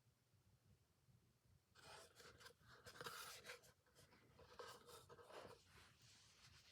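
Faint handling noises of a fixed-blade knife: irregular rubbing and scraping with a few light clicks, starting about two seconds in after near silence.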